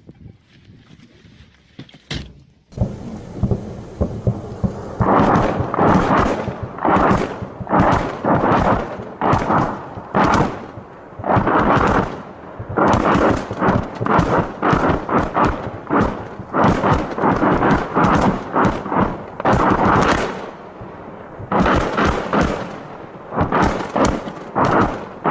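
Salvo from a Grad multiple rocket launcher: rockets going off one after another at about two a second, a long unbroken string of sharp cracks and booms that starts suddenly a couple of seconds in, with a short break near the end.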